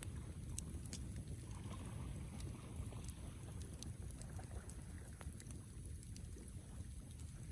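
Wood campfire burning, with scattered sharp crackles and small pops over a steady low rumble.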